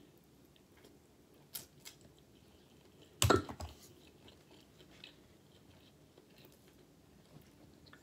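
A person eating a burger: quiet chewing and mouth noises, with a short smack about a second and a half in and one louder, brief voiced mouth sound about three seconds in.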